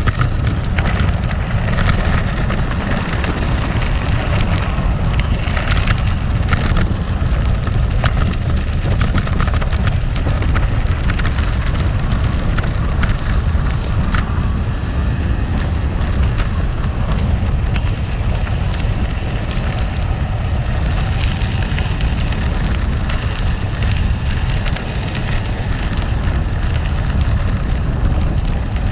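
Gravel bike tyres rolling over rough gravel: a steady grainy crunch with scattered sharp clicks and rattles from stones and the bike, over a deep rumble of wind on the microphone.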